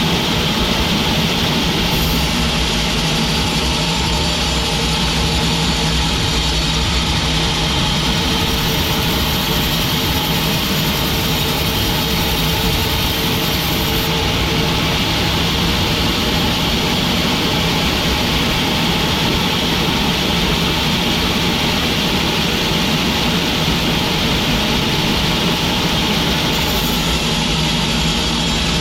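Sawmill machinery running: a loud, steady engine-like drone with a constant hum underneath.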